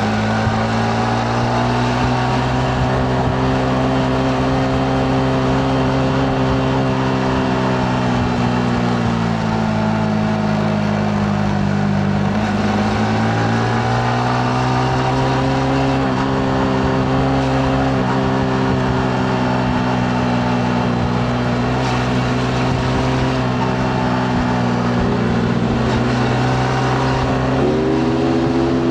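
Yamaha MT-15 single-cylinder engine running under way. Its pitch eases down for a few seconds near the middle, then climbs again, and rises once more near the end as the throttle is opened.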